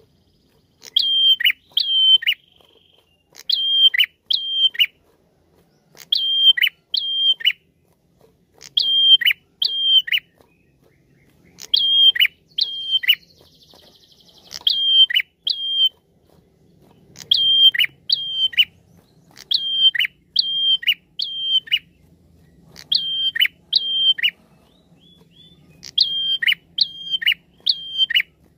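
Prenjak calling: loud groups of two to four sharp, clipped notes, each ending in a steep downward drop, repeated about every two seconds. A brief soft buzzy trill comes about halfway through.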